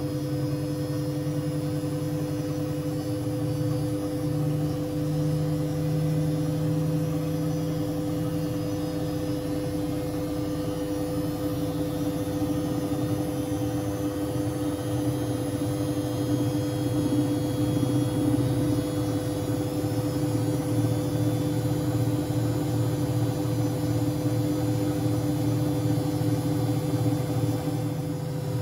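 Siemens Siwamat 6143 washing machine running, its motor turning the drum with a steady hum over a low, pulsing rumble.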